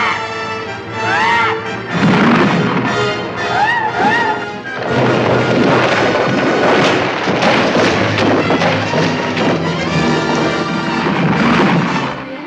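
Loud dramatic orchestral film score with short arching phrases in the first few seconds, then turning dense and full from about five seconds in, with deep booming thuds underneath.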